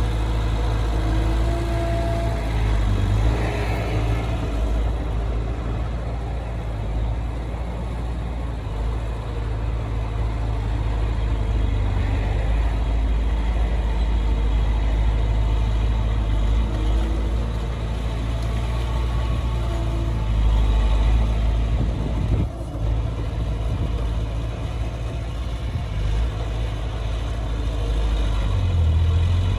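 Heavy diesel engine of earthmoving machinery running steadily under load, its low drone rising and falling a little.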